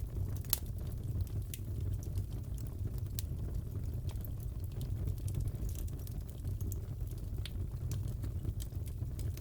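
Wood fire crackling in a fireplace: a steady low rumble with scattered sharp pops, the loudest about half a second in.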